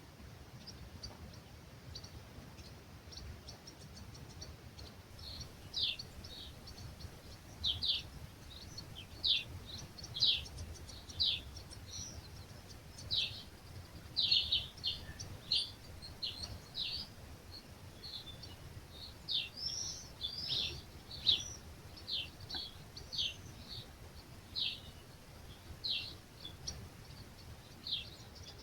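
A songbird calling over and over in short, high notes that sweep downward, about one a second, starting a few seconds in, over a faint low rumble.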